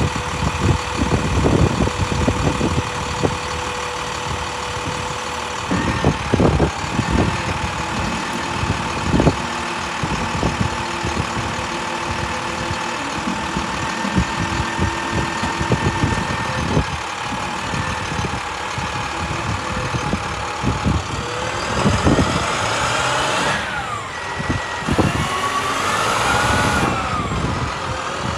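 Utility truck's MaxxForce DT diesel engine running steadily with a constant whine and scattered low knocks. From about 22 seconds in, whines glide up and down in pitch.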